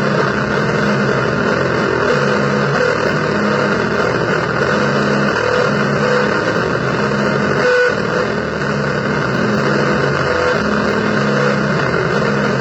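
Loud, heavily distorted electric guitar noise music: a dense, harsh wash with a low note that pulses on and off about once a second.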